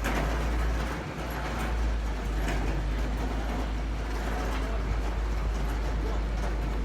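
Heavy machine's engine running with a steady low rumble, dipping briefly about a second in.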